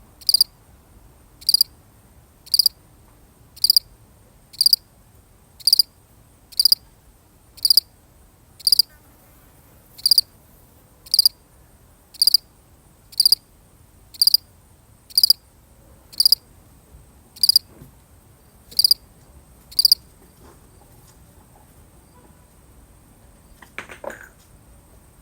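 A single field cricket chirping: short, evenly spaced chirps, about one a second, that stop about twenty seconds in. A brief faint sound follows near the end.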